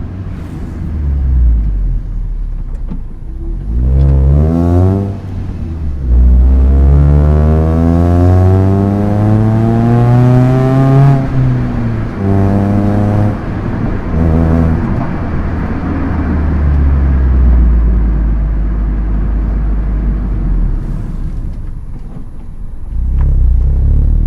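Proton Inspira's 1.8-litre four-cylinder engine revving up under acceleration in a manual car: a quick rev rise about four seconds in, then a long climb in pitch that drops suddenly at a gear change about eleven seconds in, two more short rev blips, then steadier running at lower revs before picking up again near the end.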